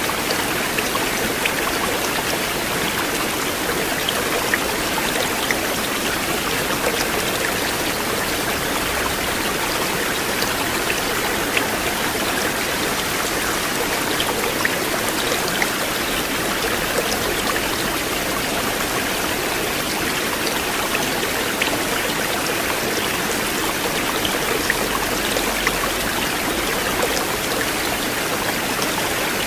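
River water flowing in a steady, unbroken rush, with small splashes scattered through it.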